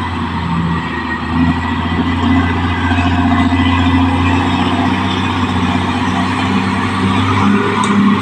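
Caterpillar D6R XL bulldozer's diesel engine running steadily, a low drone with a rhythmic pulsing over it and mechanical clatter.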